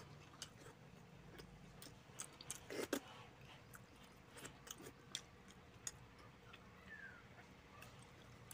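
Faint chewing of a mouthful of rice and curry eaten by hand, heard as scattered soft mouth clicks over quiet room tone. The loudest cluster of clicks comes about three seconds in.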